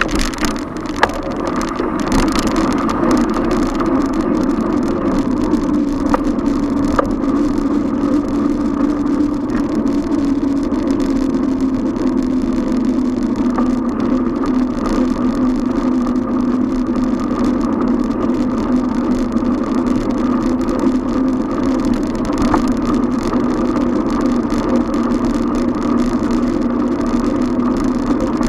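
Steady road noise heard from a moving bicycle, a continuous hum that sinks slowly in pitch, with traffic mixed in and a few light clicks.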